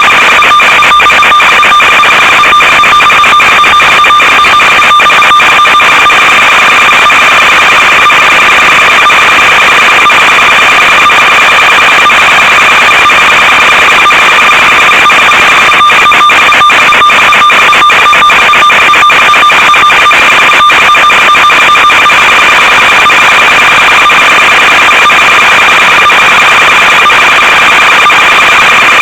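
Loud, steady electronic buzz from an analog FPV video link's audio channel: a constant whine with overtones over hiss, broken by frequent brief dropouts where the radio signal breaks up.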